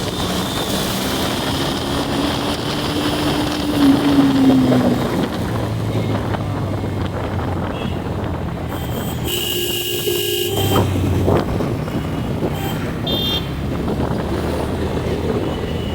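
Motorcycle riding along a road, engine running steadily under wind noise on the microphone, with traffic around. About nine seconds in, a vehicle horn sounds for a little over a second.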